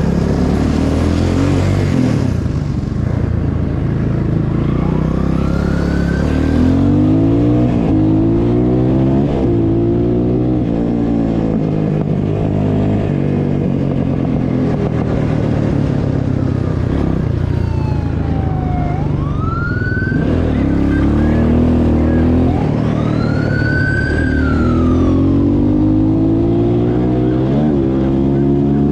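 A vehicle engine accelerating hard, its pitch climbing and dropping again and again through gear changes, while a police siren wails in a few short rising-and-falling sweeps, mostly in the second half.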